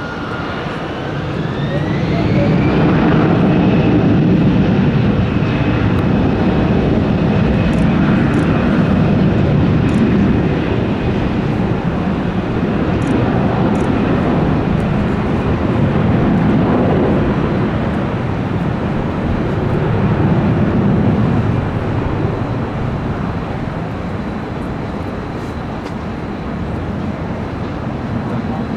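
Jet airliner passing by, its engines making a loud rushing rumble that swells over the first few seconds, holds, then slowly fades. A high engine whine drops in pitch near the start, then holds steady.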